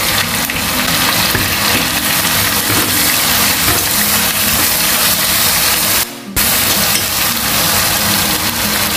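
Chicken and spice paste sizzling in hot oil in a frying pan as they are stirred with a silicone spatula. The sizzle is steady, broken only by a brief drop about six seconds in.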